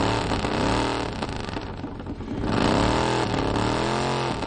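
1920 Indian Scout V-twin motorcycle engine being revved up and down, the pitch rising and falling with each blip of the throttle. It eases off briefly about two seconds in, then revs again.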